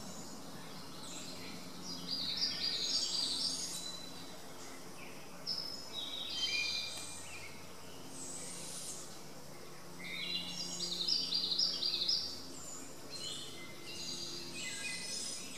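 Bird calls: bursts of short, high chirping notes come every few seconds, with a faint steady low hum underneath.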